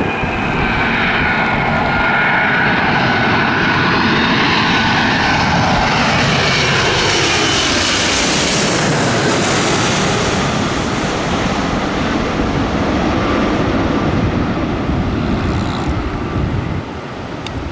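United Boeing 777 jet passing low overhead on landing approach. Its engine whine falls steadily in pitch as it comes over, loudest about halfway through, then a steady jet roar that drops off near the end.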